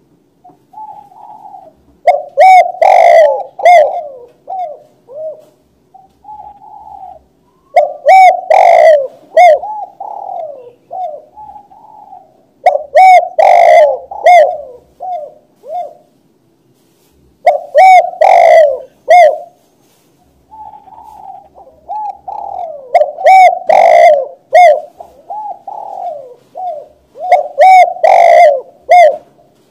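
Spotted dove (tekukur) cooing: loud phrases of several rolling coos, repeated about every five seconds.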